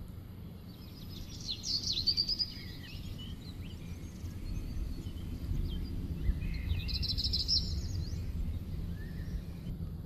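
Small birds singing in quick, high twittering phrases, once about a second and a half in and again around seven seconds, with scattered single chirps between. A steady low rumble runs underneath.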